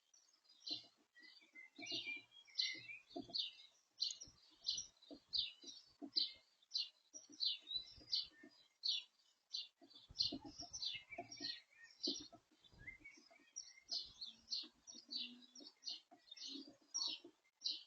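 Small songbird chirping over and over in short high calls, about two a second, with soft low knocks in between and a run of them about two-thirds of the way through.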